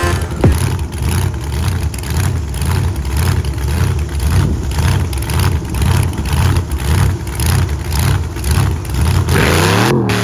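Monster truck engine revving in a steady run of pulsing throttle blips, about one and a half a second, ending in a longer rev that rises and falls near the end.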